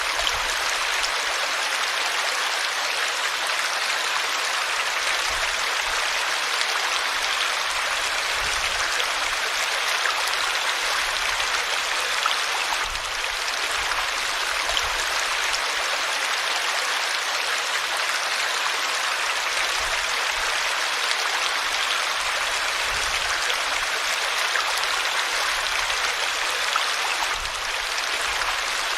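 River water flowing over rocks, a steady rushing noise.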